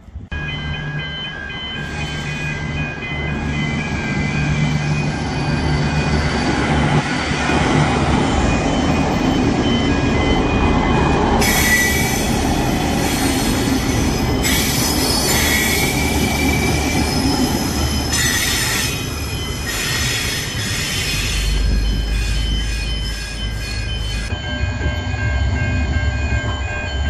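V/Line VLocity diesel multiple unit passing, its diesel engines running. From about twelve seconds in until a few seconds before the end, its wheels squeal against the rails in several high-pitched bouts.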